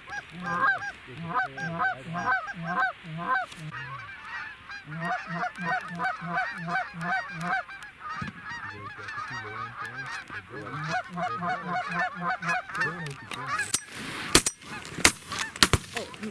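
Rapid, steady goose honking and clucking as a flock works in to the decoys, followed near the end by several shotgun shots fired in quick succession over about two seconds.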